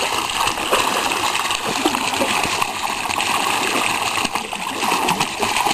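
A waterfall's water pouring and splashing in a steady rush.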